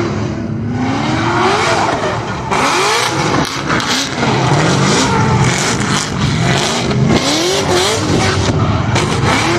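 Car engines revving hard, their pitch climbing and dropping again and again over a loud hiss.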